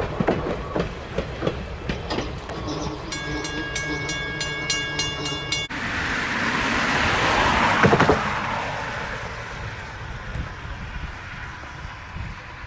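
A train passing on the rails, its wheels clicking over the joints. About three seconds in it sounds a steady chord-like warning signal for roughly two and a half seconds. After a sudden break, a rushing rumble swells to a peak and then fades as a train goes by.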